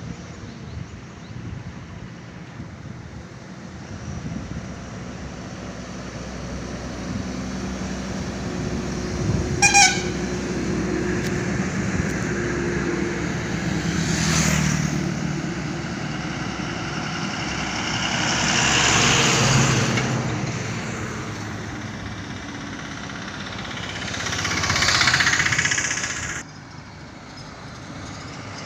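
Highway traffic with trucks passing close, one after another; each rises and fades. About ten seconds in there is a short, loud horn blast. The sound drops off suddenly near the end.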